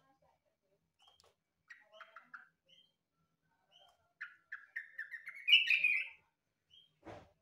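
Trucukan (yellow-vented bulbul) singing: a few short scattered chirps, then about four seconds in a fast run of notes that climbs in pitch and grows loud before breaking off. A brief knock near the end.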